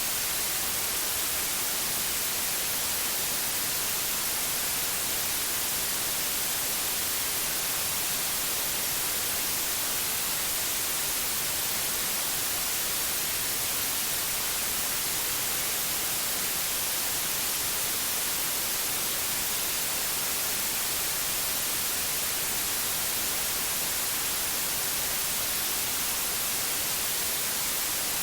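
Synthetic white noise: a steady, even hiss, brightest in the treble, with no change in level.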